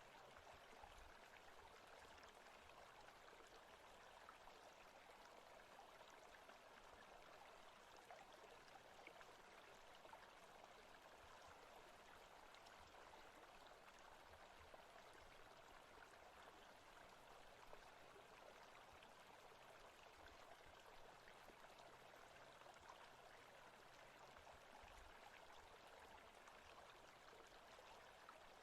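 Faint, steady forest-stream ambience: an even rush of flowing water with no separate events.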